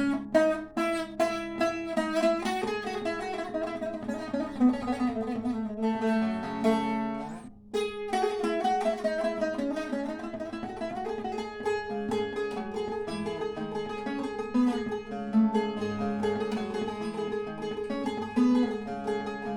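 Solo bağlama (Turkish long-necked saz) improvisation: a fast-picked melody over a steady low ringing note, with a brief break about seven and a half seconds in.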